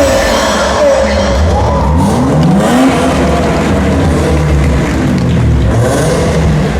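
Drift cars' engines revving hard, several pitches rising and falling over one another, with bursts of tyre skidding noise.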